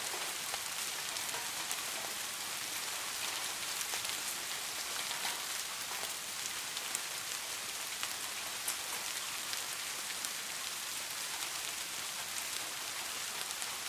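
Steady rain falling, a constant hiss with many fine, crisp drop ticks on top.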